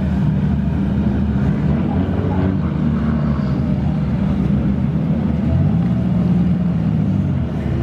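A car engine running steadily at close range with a low hum, its note lifting a little about six seconds in.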